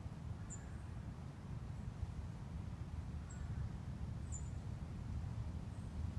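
A few short, very high, thin call notes from small songbirds, three of them spread over several seconds, over a steady low rumble.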